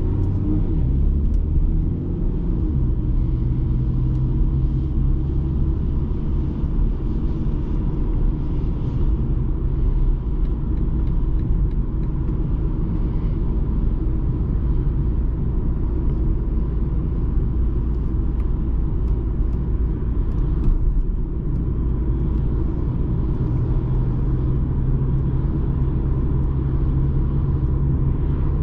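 BMW 220d xDrive Gran Coupe driving along at a steady pace: a constant low rumble of its four-cylinder diesel engine mixed with tyre and road noise.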